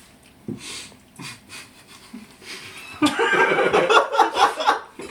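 Laughter breaking out about three seconds in after a quieter stretch, loud and choppy.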